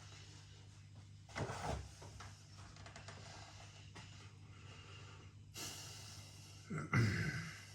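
A man breathing and making mouth noises while eating a burger: short noisy breaths or sniffs about a second and a half in and again near the end, the last one the loudest, over a low steady room hum.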